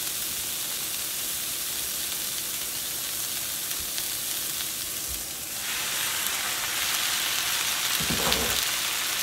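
Onions and spaetzle frying in a hot skillet, a steady sizzle that grows louder about halfway through.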